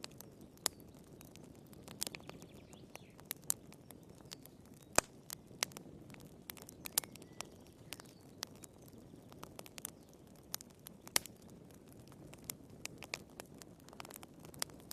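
Wood fire crackling in a fireplace: irregular sharp pops and snaps over a soft, low rumble of burning.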